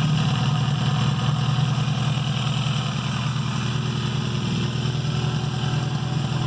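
1980 Yamaha XJ650 Maxim's air-cooled inline-four engine idling steadily after warm-up, with freshly resealed intake boots; no vacuum-leak hiss is heard.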